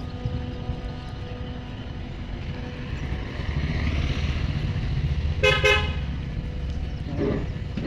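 A vehicle horn beeps twice in quick succession about five and a half seconds in, over a steady low rumble of road traffic.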